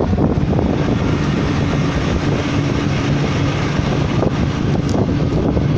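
A motor vehicle engine running steadily, with rushing road and wind noise.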